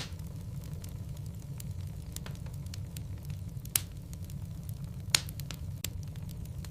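Logs burning in a fireplace: a steady low rumble of flame with continual light crackling and a few sharper pops, the loudest at the very start, about four seconds in and just after five seconds.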